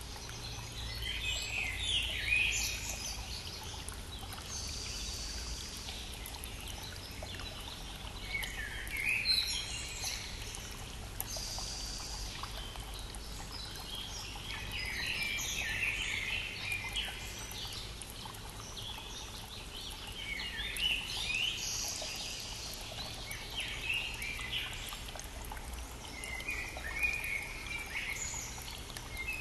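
Songbirds singing in short, repeated phrases every few seconds over the steady rushing murmur of a brook.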